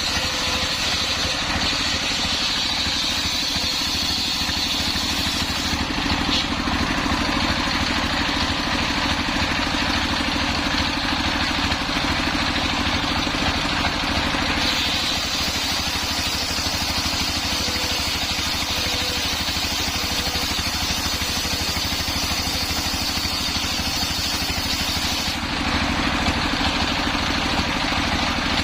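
Homemade engine-driven circular saw running steadily while its blade cuts through hard coconut-palm wood. The tone of the cut shifts a few times: about six seconds in, about fifteen seconds in, and near the end.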